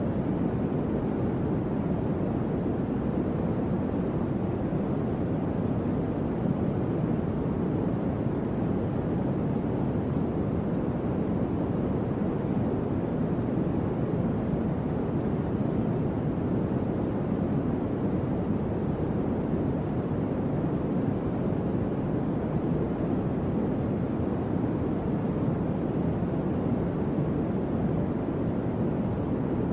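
Electric fan running steadily: an even, low whooshing rush of air with no rhythm or change.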